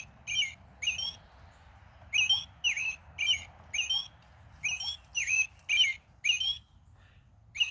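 Sound box of an Audubon plush American Robin playing a recorded robin call: short, sharp chirps, each dropping in pitch. Two chirps come, then a pause of about a second, then a steady run of about two a second.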